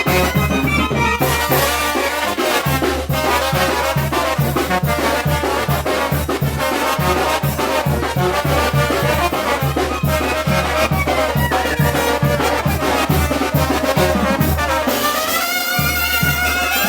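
Mexican brass band (banda) playing, trumpets and trombones over a steady drumbeat. About fifteen seconds in the drumbeat drops out and the brass holds long notes.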